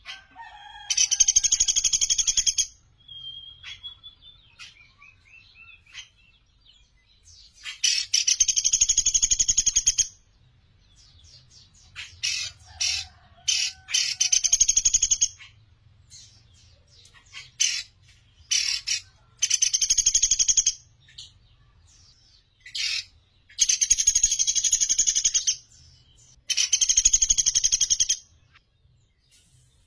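Caged pelatuk beras singing: loud, rapid, high-pitched rattling trills of about two seconds each, six or so, with shorter bursts and single chips between them.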